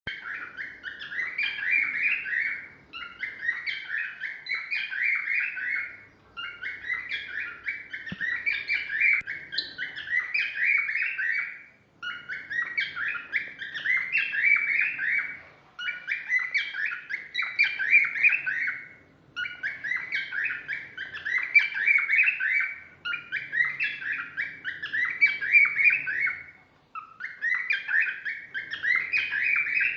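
Cockatiel singing: a run of rapid, warbling chirped phrases, each a few seconds long, repeated with short pauses between them.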